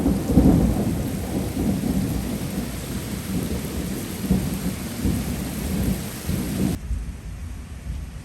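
Thunder rumbling over heavy rain, the rumble slowly fading. About seven seconds in, the hiss of the rain cuts off abruptly and only a low rumble remains.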